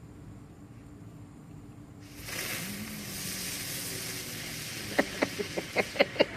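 A small lit firework starts hissing steadily about two seconds in, then gives a quick run of sharp crackles over its last second or so.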